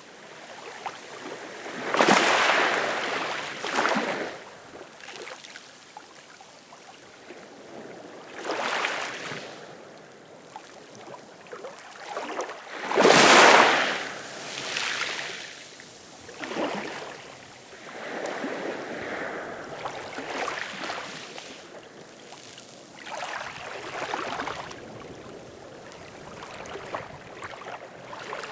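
Small ocean waves washing and splashing at irregular intervals, one every few seconds, the loudest about halfway through.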